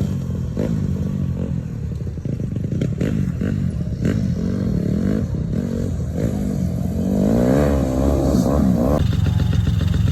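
Yamaha PW50's small 49cc two-stroke engine revving up and down again and again as the throttle is opened and eased off. A longer climb in pitch comes about two-thirds of the way in, then the sound changes abruptly.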